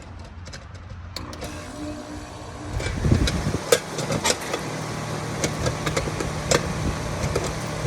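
2002 Ruud Achiever X 3.5-ton heat pump, with a remanufactured Copeland scroll compressor, starting up in cooling mode. There is a click about a second in. About three seconds in the unit comes up to speed and settles into a steady, smooth-running hum, with scattered ticks.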